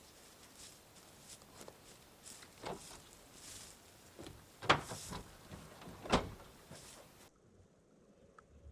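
Rustling and handling noises, then two sharp knocks about a second and a half apart, after which the background cuts off abruptly.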